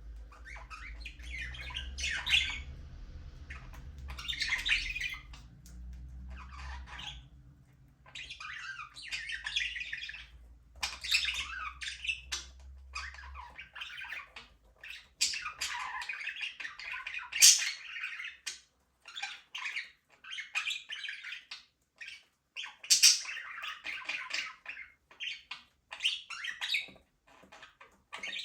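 Budgerigars chattering and calling in quick, irregular bursts, with sharp chirps and squawks.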